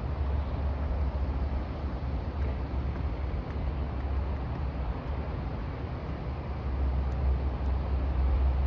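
Low, steady engine drone of a passing ship over a haze of outdoor noise, growing a little louder near the end.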